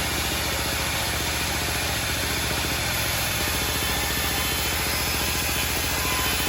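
Homemade band sawmill running steadily: its engine drone with a fast even pulse under the wide hiss of the machine, holding an even level throughout.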